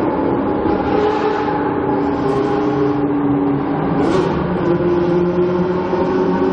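Supercar engine running at steady low revs: an even, deep drone whose pitch shifts slightly a few times.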